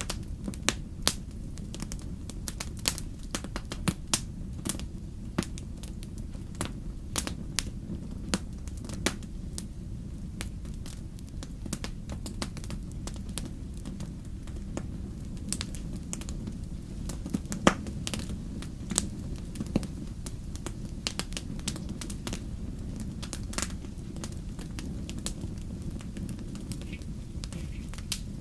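Wood fire in a fireplace crackling, with irregular sharp pops and snaps over a steady low rumble of burning. One louder pop comes about two-thirds of the way through.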